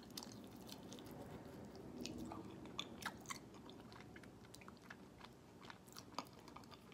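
A person chewing a bite of honey barbecue chicken wing: faint, irregular mouth clicks and smacks.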